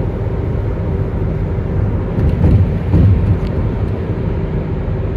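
Road noise inside a moving car: a steady low rumble of tyres and engine, with a few louder bumps and faint clicks about two to three and a half seconds in.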